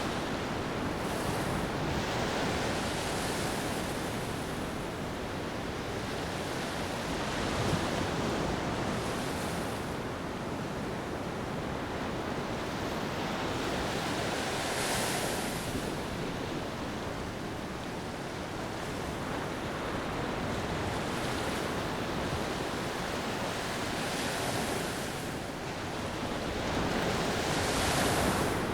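Sea waves washing up on a beach: steady surf with a fresh hissing wash every few seconds, the biggest about halfway through and near the end.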